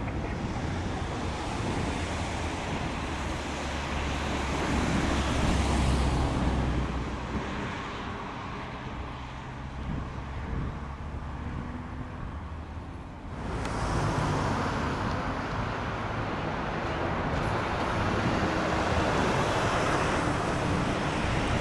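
Jet airliner engine noise on landing approach: a rumbling roar that swells and then eases off. About thirteen seconds in it breaks off suddenly, and a new roar from another aircraft builds again.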